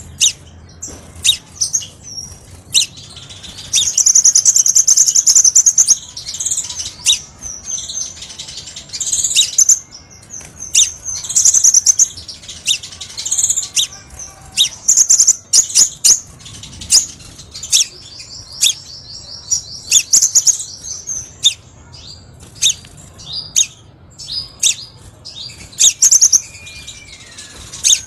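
Crimson sunbird (kolibri sepah raja) singing: rapid high-pitched chirps and sharp notes, broken by longer fast trills about four seconds in and again past the middle.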